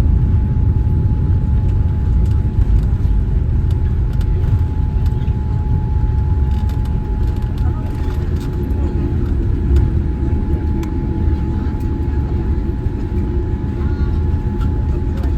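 Steady low rumble inside the cabin of a Boeing 787-9 airliner, with a thin steady whine above it and a few faint clicks.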